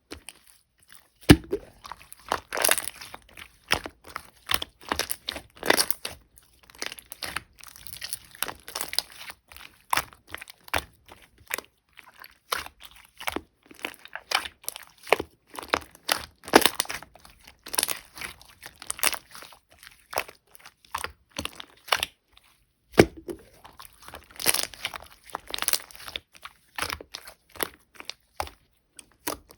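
Hands kneading, pressing and stretching a thick, chewy mochi-style slime, making a string of irregular sticky clicks, snaps and crackling pops.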